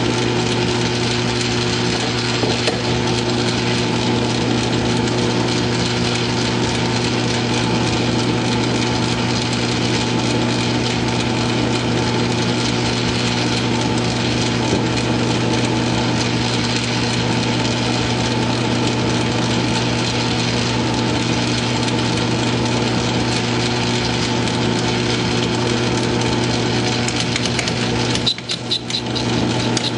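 South Bend metal lathe running steadily under power, a motor hum with a rasping machining noise over it. Near the end the sound dips briefly and gives way to a fast, even pulsing.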